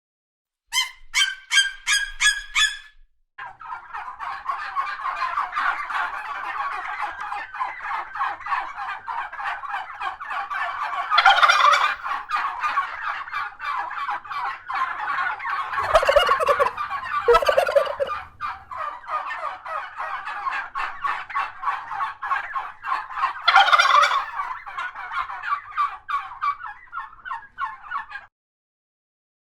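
Turkeys gobbling. A short gobble comes about a second in, then a long stretch of many birds gobbling in rapid rattling calls, with louder gobbles standing out several times.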